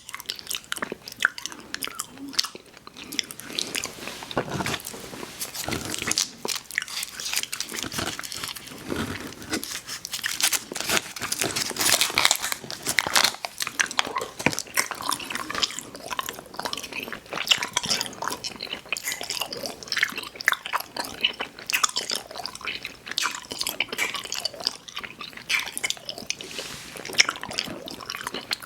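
A person chewing and biting sour gummy worms cereal: a dense, continuous run of crisp crunches.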